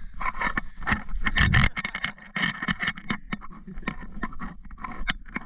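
Irregular crunching and scraping of footsteps in snow, with a loud low bump of wind or handling on the microphone about a second and a half in.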